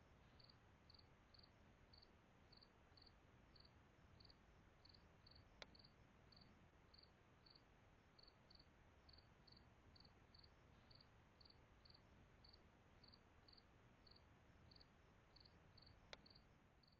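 Faint cricket chirping steadily, short high chirps about two a second, with two sharp clicks, one about five and a half seconds in and one near the end.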